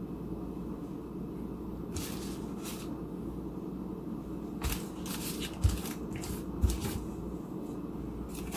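Handling noises from sandwich making: several short rustles and scrapes and two soft thumps, over a steady low hum.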